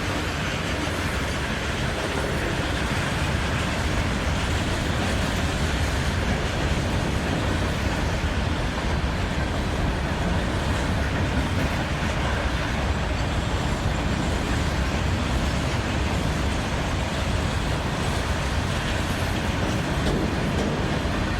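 Freight train hauled by an Indian Railways WAG-9 electric locomotive passing close by: a steady, unbroken rumble of steel wheels rolling on the rails.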